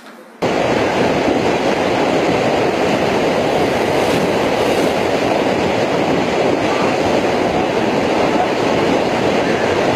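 Floodwater rushing in a torrent: a loud, steady roar that starts abruptly about half a second in.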